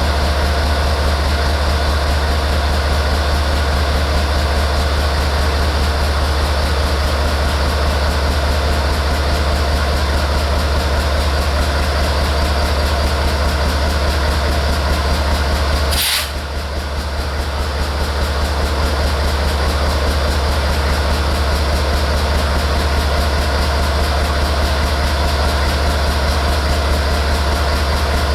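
Diesel locomotive engine idling with a steady low hum. About halfway through there is one sharp click, after which the hum briefly drops and builds back up.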